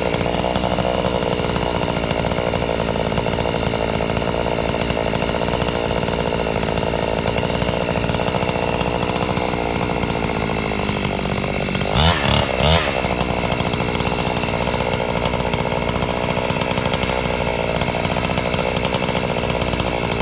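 Chainsaw running steadily under load as it rips lengthwise through a log, with two quick revs up and down about twelve seconds in.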